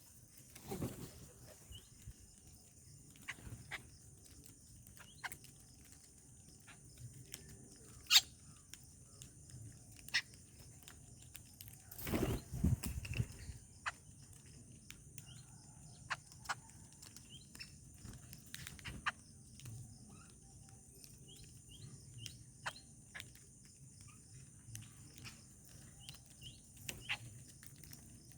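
Birds feeding outdoors: scattered short chirps and sharp ticks over a steady high hiss. There is a loud tick about eight seconds in and a heavier rustling bump around twelve to thirteen seconds.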